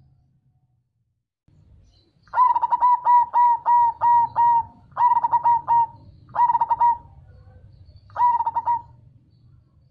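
Zebra dove (perkutut) cooing: after about two quiet seconds, a rapid run of about eight notes, then three shorter phrases.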